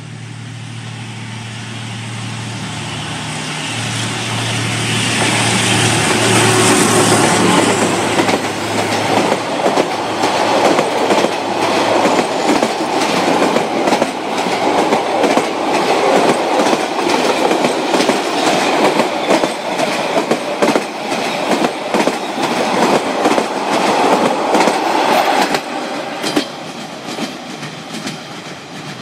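D19E diesel-electric locomotive passing close by, its engine drone growing louder over the first several seconds. Its passenger coaches then roll past with a steady clickety-clack of wheels over the rail joints, which fades near the end as the train moves away.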